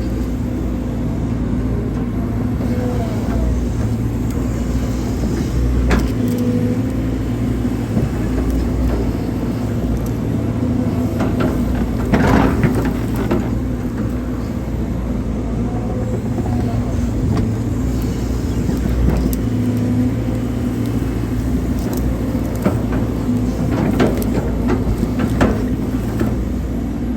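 Hydraulic excavator's diesel engine running steadily, with a few sharp knocks and clanks, the loudest about twelve seconds in.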